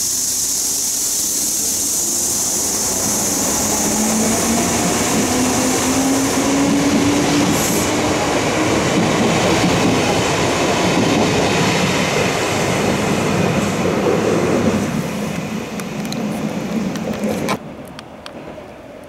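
Kintetsu electric train running close past the platform: a steady rumble and rail noise, with a motor whine rising in pitch as it gathers speed. The sound falls away suddenly near the end.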